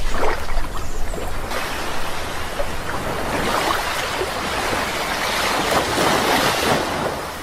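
Sea waves rushing onto the shore, a long surge building over several seconds and easing off near the end, with a few faint bird chirps in the first second.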